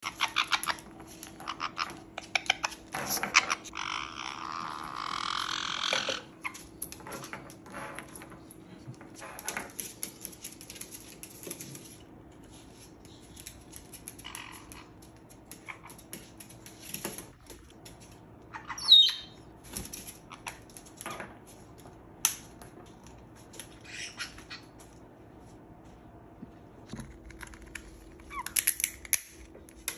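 Parrots cracking a nut with their beaks: scattered sharp clicks and cracks throughout, with a couple of seconds of louder rasping noise about four seconds in. One loud, short squawk comes about two-thirds of the way through.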